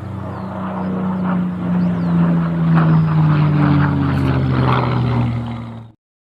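Propeller of an electric RC model plane running in flight, a steady drone whose pitch slowly falls. It cuts off suddenly near the end.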